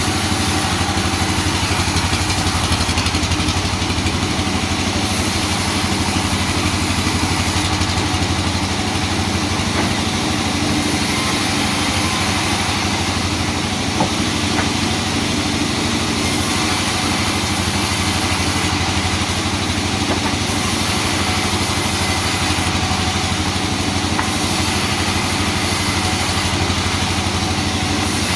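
Sawmill machinery running steadily with an engine-like drone and no break, with one brief tick about halfway through.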